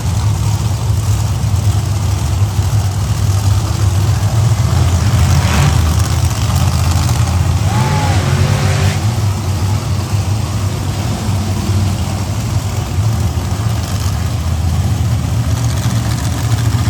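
Monster truck engines idling with a steady low rumble, with a brief gliding tone about eight seconds in.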